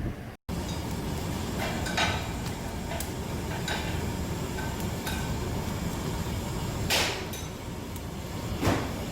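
Clatter of dishes and metal utensils: scattered clinks and knocks over a steady low hum, with two louder short noises near the end.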